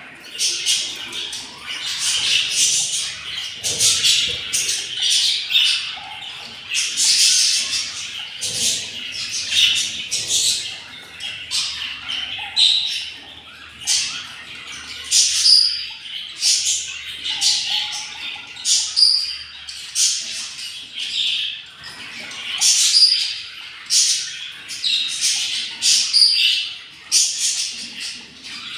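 Budgerigars chattering with a rapid, continuous stream of squawks and chirps.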